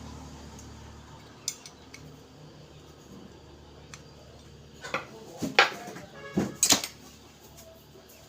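Small metal parts clinking and clattering as they are handled: a few light clicks, then a burst of louder knocks and rattles about five to seven seconds in.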